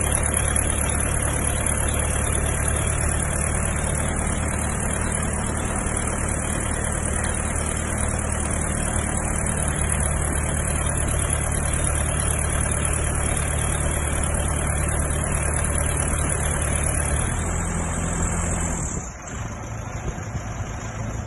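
Helical pile driving rig's engine running steadily under load. Its note shifts about three-quarters of the way through, and it then drops away sharply near the end.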